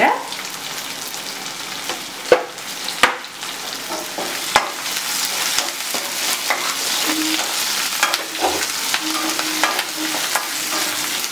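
Shallots, curry leaves and whole spices sizzling in hot oil in a nonstick kadai as they are stirred and sautéed with a spatula, with several sharp clicks of the spatula striking the pan.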